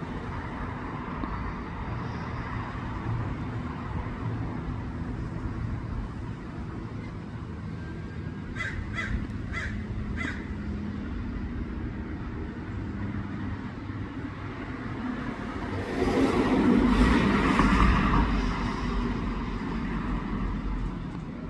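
Steady traffic rumble, with a bird giving four short calls in quick succession about halfway through and a vehicle passing louder for a few seconds near the end.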